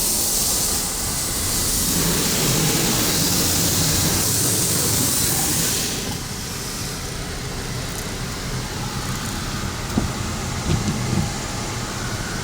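Ryko Radius in-bay automatic car wash spraying water, a loud steady hiss that stops about six seconds in. The wash machinery keeps running after that, with a few short knocks near the end.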